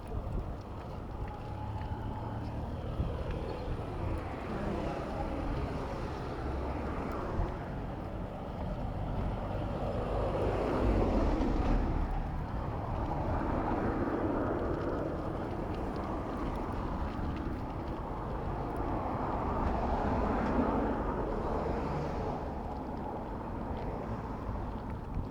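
Urban road traffic heard from a moving bicycle, with wind noise on the microphone. The traffic noise swells louder twice, once about halfway through and again later on.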